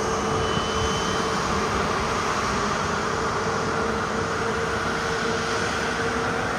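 Boeing 787-9 jet engines running steadily: a continuous rushing noise with a constant hum-like tone beneath it.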